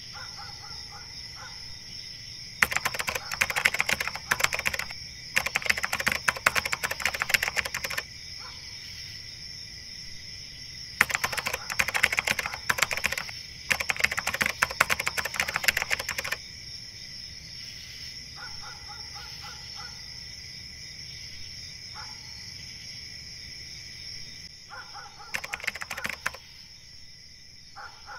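Keyboard typing sound effect: two long runs of rapid clicking over a steady high-pitched night-insect drone, with a few short pulsed chirps between them.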